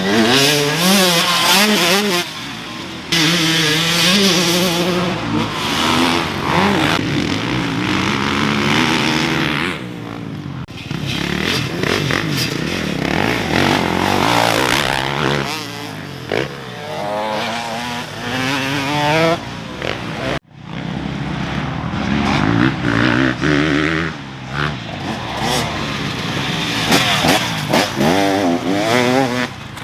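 Two-stroke KTM SX150 dirt bike engine revving up and down over and over as it is ridden, pitch climbing and falling through the gears, with a rushing noise over it. The sound drops out for an instant about twenty seconds in.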